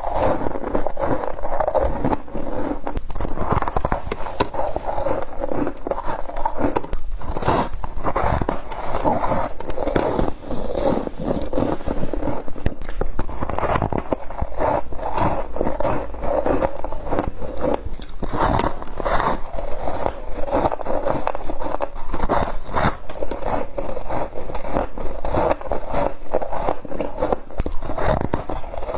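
Humidifier-grown freezer frost being bitten and chewed: a continuous run of dense crunches and scrapes with no pause.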